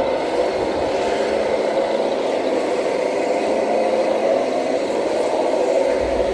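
Radio-controlled scale model truck running: a steady mechanical whirr of its drivetrain, with no clear changes.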